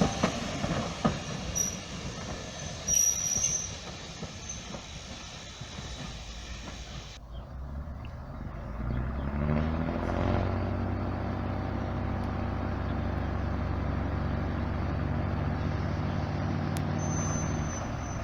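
Train wheels rolling and squealing on the rails with high-pitched squeals. After a sudden change about seven seconds in, a diesel multiple unit's engine revs up, rising in pitch, then holds a steady drone until near the end.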